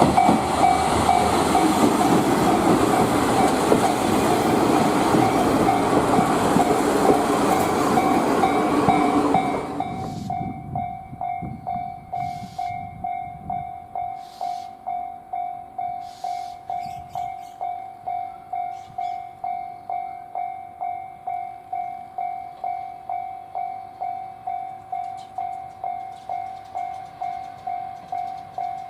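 A former JNR diesel railcar (KiHa 37/38 type) runs past with loud engine and wheel noise for about the first ten seconds, then falls away. A level-crossing warning bell keeps ringing steadily at about one and a half strokes a second.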